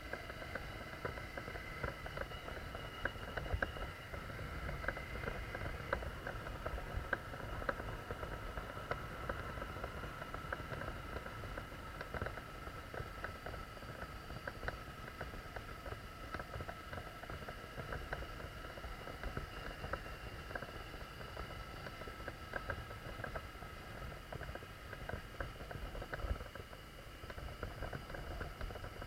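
Dual-sport motorcycle running at a steady, even pace on a dirt forest track, with small stones and gravel crackling under the tyres.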